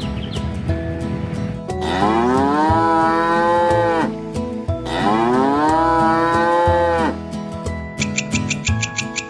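A cow mooing twice, two long calls that rise in pitch and then hold, over background music.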